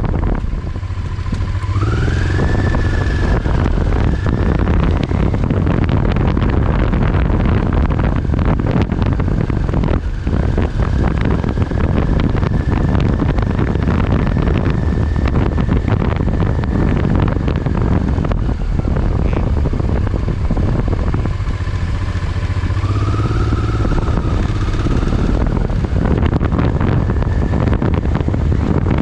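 Motorcycle riding along at speed, its engine drowned in heavy wind rumble on the microphone. A faint whine rises in pitch about two seconds in, and shifts again near the end.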